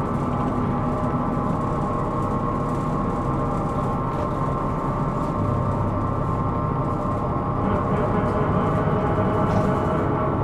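Hino Rainbow II (SDG-KR290J1) city bus running, heard inside the cabin: a low engine and road rumble under a dense cluster of steady whining tones. The whine is the abnormal noise (異音) the bus is recorded for. It grows a little louder near the end.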